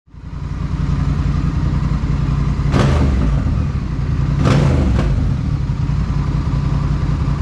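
Honda Rebel motorcycle engine running steadily, with two short sharp bursts of noise about three and four and a half seconds in.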